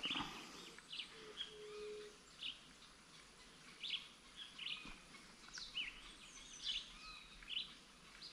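Small birds chirping in the trees: many short, high calls scattered throughout, several sliding down in pitch.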